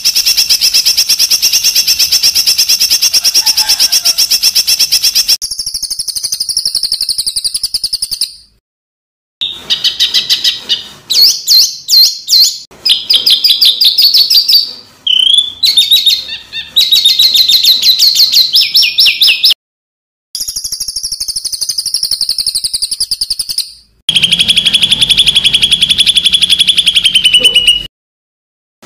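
Recorded songbirds singing fast, harsh trills and rattling phrases, many notes a second, high-pitched, in separate clips spliced one after another with short dead-silent gaps between them.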